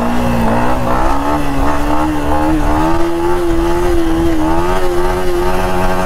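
Motorcycle engine pulling under steady acceleration, its pitch rising gradually through the first few seconds and then holding.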